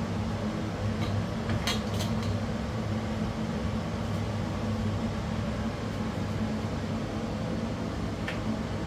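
Kitchen chimney (range hood) fan running with a steady low hum, with a few short clicks about two seconds in and one near the end.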